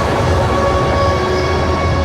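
Steady road and wind noise inside a car travelling at highway speed, with several thin steady tones running over the rumble.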